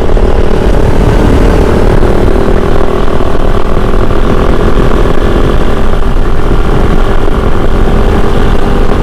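Single-cylinder engine of a Kove 450 Rally adventure motorcycle running steadily, with a dense low rumble under a steady engine tone.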